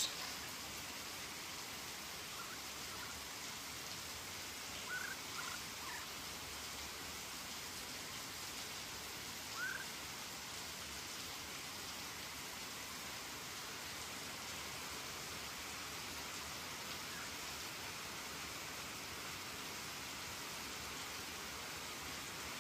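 Steady hiss of heavy rain falling. A few brief high squeaks stand out, a little before five seconds in and again near ten seconds.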